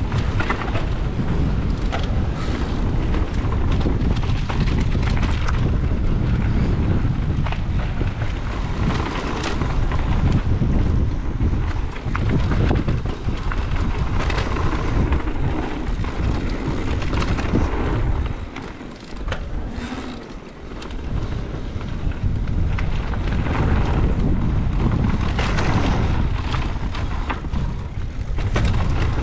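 Wind buffeting the microphone during a fast mountain-bike descent, a loud rumble with tyre noise and the clatter of the e-bike over trail bumps. It drops off briefly about two-thirds of the way through, then picks up again.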